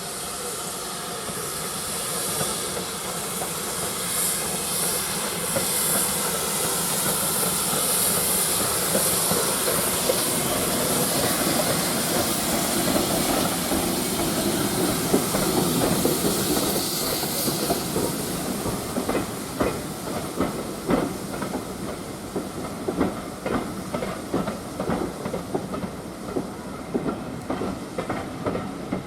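Steam train passing: a steady hiss of steam builds to its loudest about halfway through. It then gives way to the wheels clattering over rail joints in quick repeated knocks.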